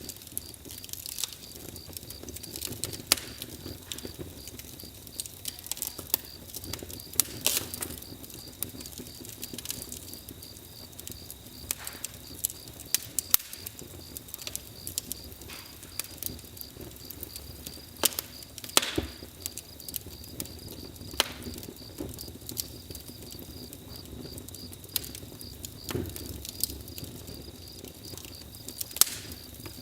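Campfire crackling: wood burning with sharp, irregular pops and snaps over a low steady rumble. A steady high-pitched trill runs behind it.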